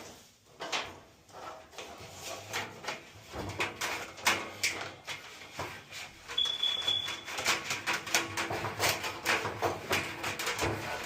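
Repeated irregular knocks, clicks and clatter of parts and tools being handled during dryer repair work, with one short high electronic beep about six and a half seconds in.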